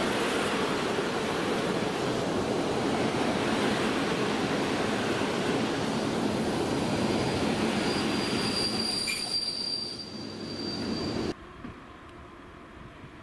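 Passenger coaches rolling past on the rails, a steady loud rumble of wheels and running gear. In the last few seconds a high steady wheel squeal joins it, then the sound cuts off abruptly to a much quieter background.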